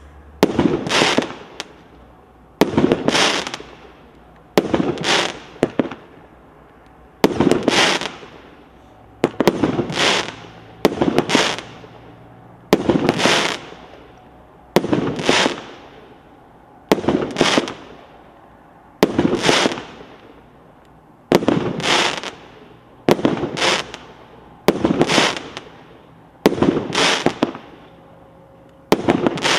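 19-shot, 30 mm firework cake firing its shots one after another, about one every two seconds. Each shot is a sharp launch pop followed by a crackling burst lasting about a second.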